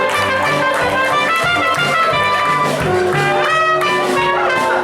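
Brass-led orchestral music, a lively melody with quickly changing notes and a brief sliding note about three and a half seconds in, played as transition music between scenes of a stage musical.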